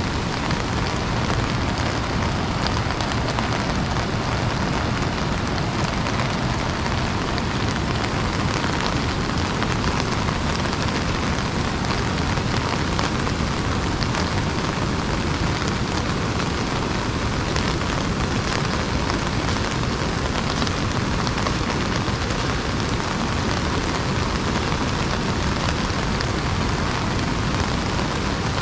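Steady rain pattering on an umbrella, a dense even hiss of countless small drop hits.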